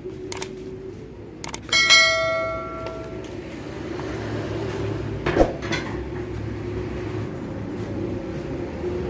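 Suzuki Futura van's engine idling steadily through a racing exhaust. About two seconds in comes a loud metallic clang that rings on for over a second, with a few light clicks just before it and a sharp knock later.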